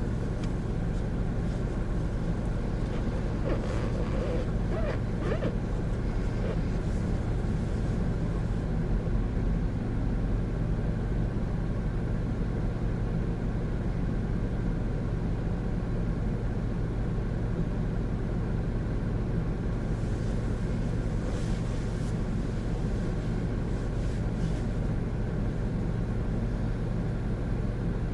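Honda N-BOX Custom kei car with its 660cc turbo engine driving at a steady pace, heard from inside: a continuous low drone of engine and road noise.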